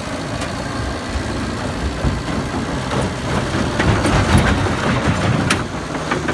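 John Deere 550K crawler dozer's diesel engine running, getting louder about four seconds in, with a couple of sharp knocks near the end.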